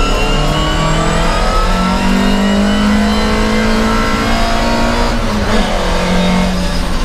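Volvo 544 racing car's four-cylinder engine heard from inside the cabin, pulling under acceleration with its note slowly rising. About five seconds in the note breaks briefly and comes back lower.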